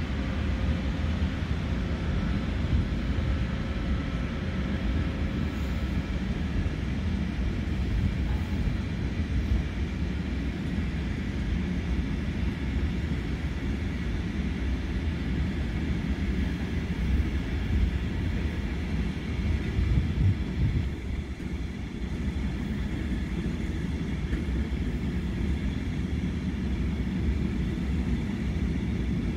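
Freight train of flat wagons rolling on a far track: a steady low rumble, with a faint thin whine during the first six seconds.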